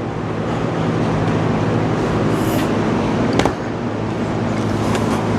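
Steady machinery hum and noise, with a single sharp click about three and a half seconds in.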